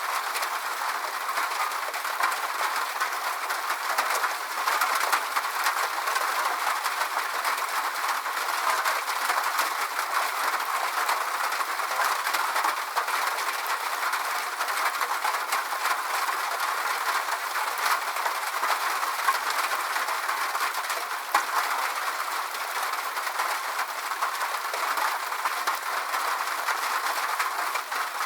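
Steady rain: an even hiss of falling drops with scattered sharper drop ticks, unchanging throughout.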